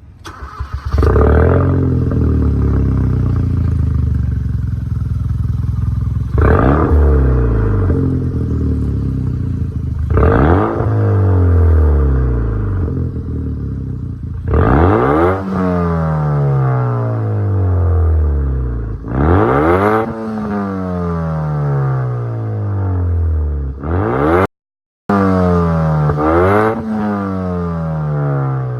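Hyundai Veloster Turbo's 1.6-litre turbocharged four-cylinder, its exhaust running with no resonator or muffler, being blipped repeatedly. There are about seven sharp revs, each falling back toward idle.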